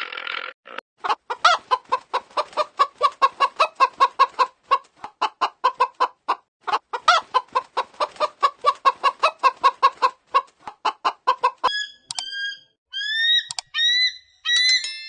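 Chicken clucking: a long run of short clucks, about five a second. About three seconds before the end it gives way to a few higher, squawking calls that rise and fall in pitch.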